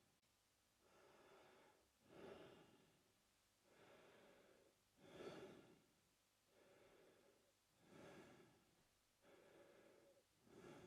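Adult man breathing slowly and evenly through his mouth, about four breath cycles, each a longer, even breath and a shorter, louder one.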